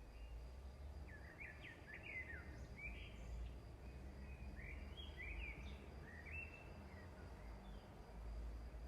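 Faint bird chirps and twitters, a run of short sweeping calls through the middle, over a steady low rumble.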